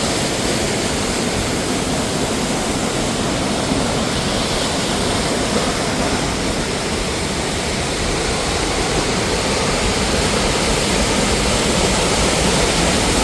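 Rushing mountain water falling over rocks: a loud, steady rush that does not let up.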